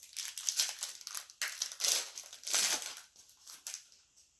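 Plastic trading-card pack wrapper crinkling in a series of bursts as it is handled and opened.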